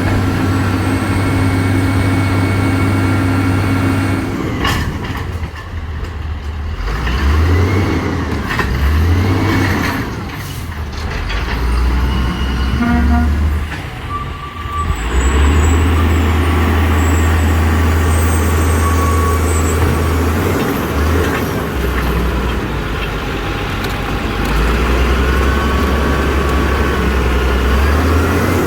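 Garbage truck's diesel engine running, revving up and back down several times while working its recycling pickup, with the low engine note changing through the stretch.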